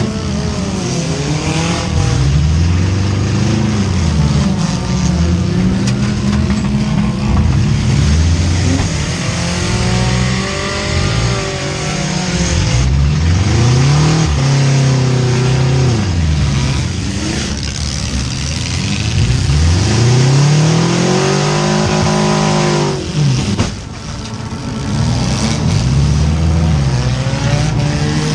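Four-cylinder demolition derby car engines revving hard, their pitch climbing and falling again and again as the cars accelerate, with a short drop in loudness near the end.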